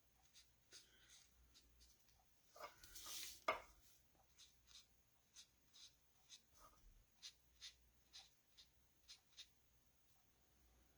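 Faint scratching and tapping of a dual-tip colouring marker on cardstock: a brief louder rustle ending in a click a few seconds in, then a string of soft, separate ticks.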